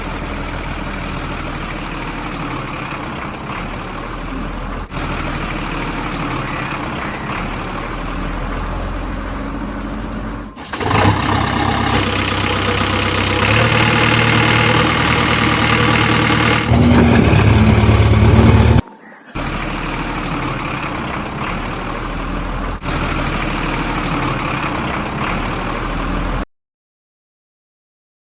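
A motor running steadily. It comes in several spliced stretches that jump abruptly in pitch and loudness, the loudest in the middle. It cuts to silence near the end.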